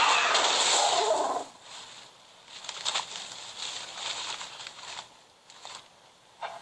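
Loud screeching call of a terror bird creature, a dubbed prehistoric-bird sound effect, that cuts off suddenly about a second and a half in. Faint rustles and scattered clicks follow.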